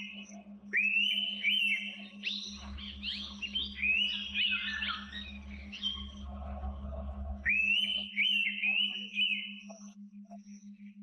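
Forest birds whistling: runs of short whistled notes that rise and then fall, several in quick succession. The runs overlap thickly in the middle and return near the end, over a steady low pulsing hum and a low rumble in the middle stretch.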